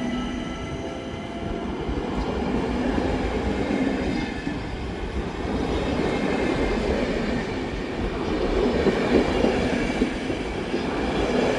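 Train running along the station tracks: a steady rail rumble with a few louder knocks about eight to ten seconds in.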